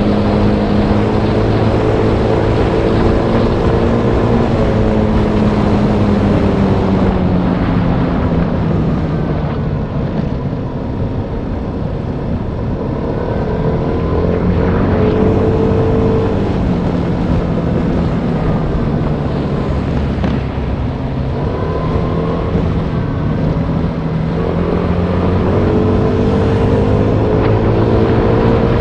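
Motorbike engine running while riding, its pitch sinking through the middle and rising again near the end as the speed changes, over a steady rush of wind and road noise.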